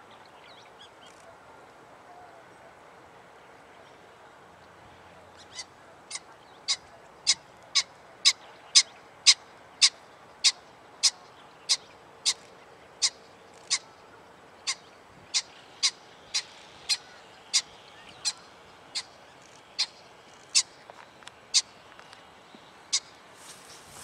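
A bird's short, sharp call repeated about twice a second, starting about five seconds in and keeping an even pace until near the end, loudest a few seconds after it starts.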